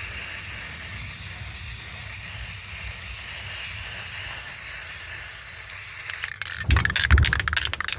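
Aerosol spray paint can spraying in a steady hiss for about six seconds, then stopping; near the end comes a rapid clicking rattle, the can being shaken.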